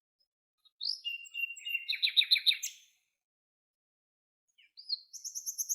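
A songbird singing two phrases, each a quick upslurred note leading into a rapid trill of high repeated notes; the first lasts about two seconds, the second starts near the end.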